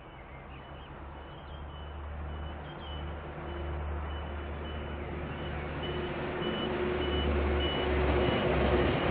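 Diesel train approaching, its low engine rumble growing steadily louder, with a short high electronic beep repeating about twice a second.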